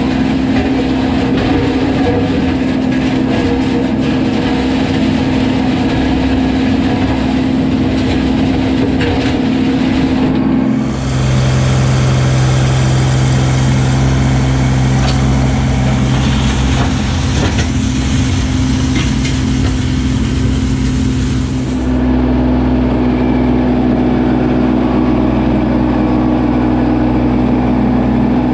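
Kubota LX2610 compact tractor's three-cylinder diesel engine running steadily under work. About 11 s in, the sound switches abruptly to a lower engine note with more hiss, and it switches back about 22 s in.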